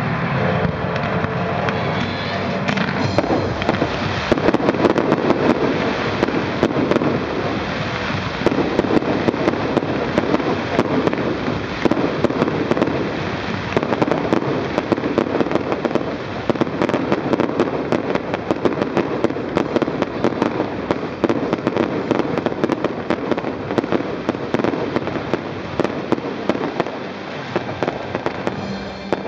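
Aerial fireworks going off in a dense, continuous barrage of crackles and bangs, many sharp pops overlapping throughout.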